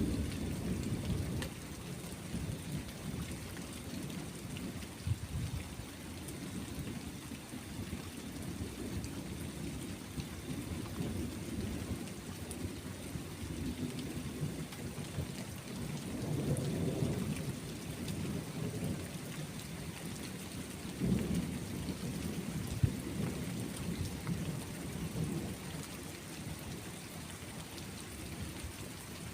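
Steady rain with rolling thunder rumbling low underneath, the rumble swelling a little past halfway and again a few seconds later.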